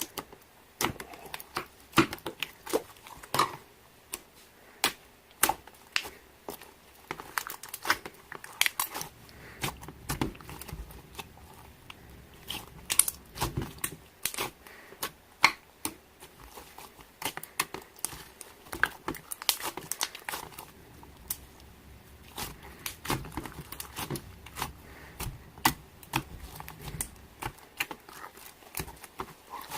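Slime being squeezed and pressed by hand, giving a quick, irregular run of sharp clicks, pops and crackles.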